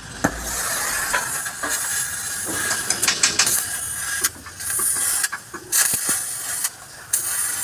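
Hissing in stop-start bursts of one to a few seconds, with several sharp clicks between the bursts.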